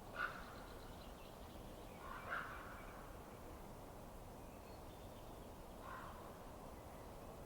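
A bird calling: three short pitched calls spread a few seconds apart, the first two the loudest, over a faint steady hiss.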